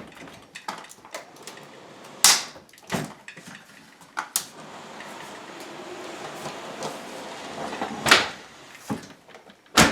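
LG dishwasher being pulled out of its opening under the countertop: a few sharp knocks and bangs as the metal unit is worked loose, with a steady scraping slide in the middle.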